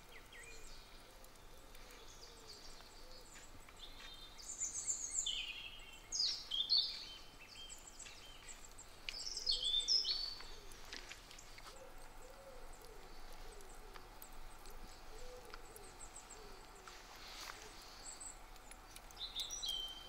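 Wild songbirds singing outdoors: a few short, bright, chirpy phrases about four, six and nine seconds in, over a quiet background. Faint low calls come later.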